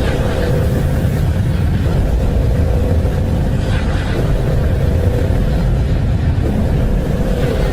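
Steady, loud low rumbling roar like a strong blizzard, with a faint steady hum running through it: the 'space sound' recording given for Neptune's moon Triton, played back from a video.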